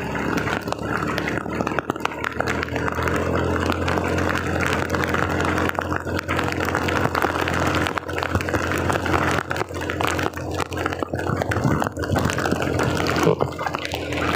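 Heavy rain pouring and splashing, with many small crackling hits, over the steady low hum of a vehicle engine.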